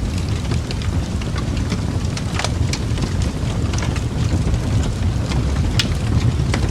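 Wood fire crackling: a steady low rumble with scattered sharp pops and snaps, the loudest about two and a half and six seconds in.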